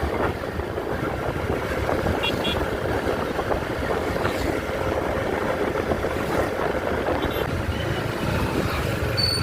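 Motorcycle on the move in city traffic: steady engine and road noise, with a few faint short high tones about two seconds in and a thin high tone near the end.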